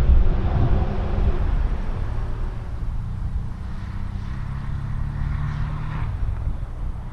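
Porsche Cayman S engine running under way, loudest just after the start and then settling to a steadier note that climbs a little in pitch through the middle.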